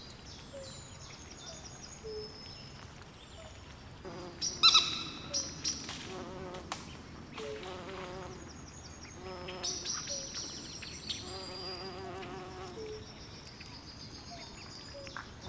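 Night swamp chorus: frogs calling in short low notes and wavering trills, over repeated high-pitched chirping. One louder, harsher call stands out about four and a half seconds in.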